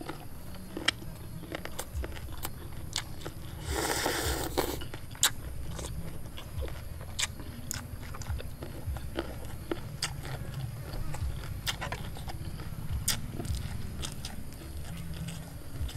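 A person chewing and biting boiled octopus and raw spring onion close to the microphone: short wet clicks come scattered throughout, with one brief louder noisy patch about four seconds in.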